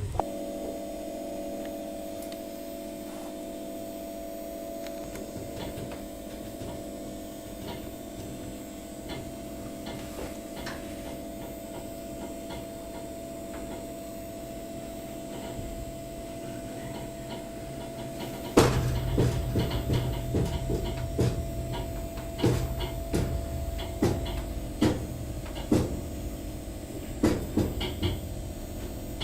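Inside a train carriage: the steady hum and rumble of the running train, then about two-thirds of the way through a sudden louder bang, after which the rumble grows heavier and sharp clunks and clatters come roughly once a second.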